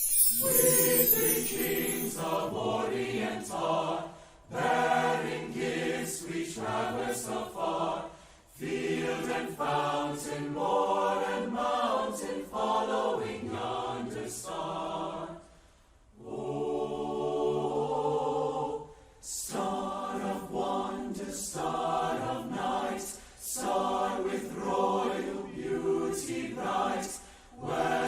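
Student choir singing a Christmas choral piece in several voices, in phrases broken by short pauses.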